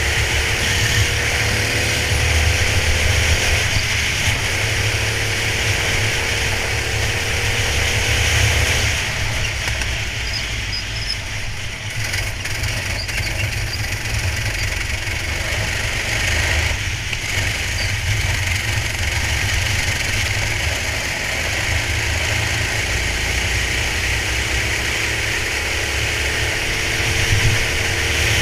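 Racing kart engine heard from on board, its pitch rising and falling as it accelerates and lifts through corners, over a steady rushing noise. The engine note drops away for a few seconds about a third of the way in, then pulls up again and climbs near the end.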